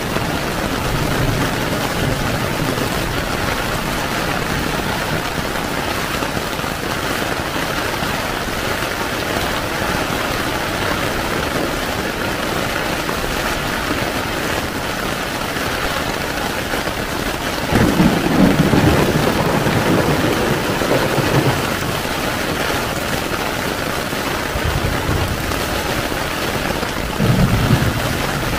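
Heavy rain falling steadily on a tent. Low thunder rumbles swell up about two-thirds of the way through and again briefly near the end.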